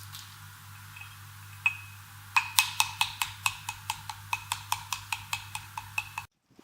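A utensil beats rapidly against a bowl that rings with each stroke, about five sharp clicks a second, over a low steady hum. It cuts off suddenly near the end.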